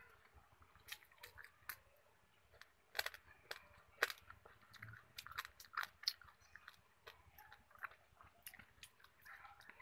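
Close-miked chewing of crispy fried food: irregular crunches and wet mouth clicks, loudest about three and four seconds in.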